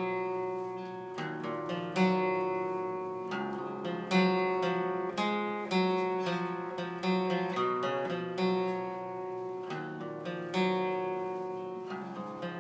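Acoustic guitar playing an instrumental passage between sung verses: chords struck every second or two, each ringing out and fading before the next.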